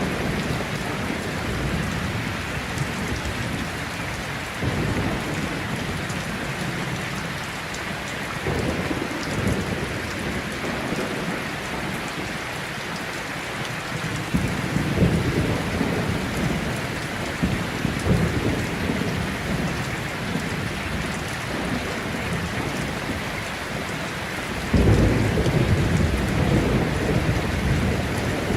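Heavy rain falling steadily, with rolls of thunder rumbling low several times, the loudest starting near the end.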